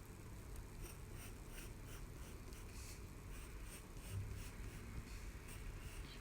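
Faint scratching of strokes drawn on paper, a series of short separate strokes over a low room hum.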